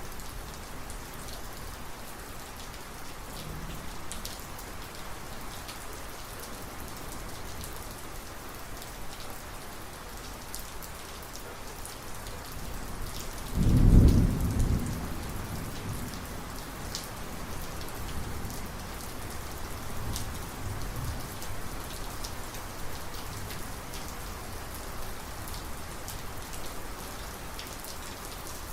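Steady rain falling, with scattered close drops ticking. About halfway through, a loud thunderclap breaks out and rolls off into a rumble over a couple of seconds, with fainter thunder rumbling a few seconds later.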